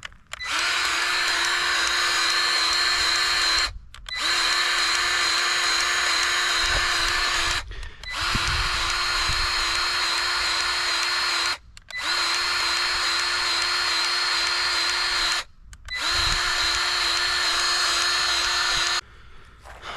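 Battery-powered grease gun running in five runs of about three and a half seconds each, with short pauses between, pumping grease into the stump grinder's grease fittings. Its motor whines at a steady pitch through each run.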